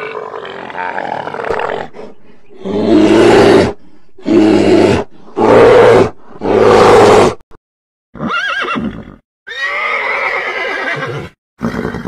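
A polar bear's loud calls, four in a row of about a second each, then a horse whinnying twice near the end.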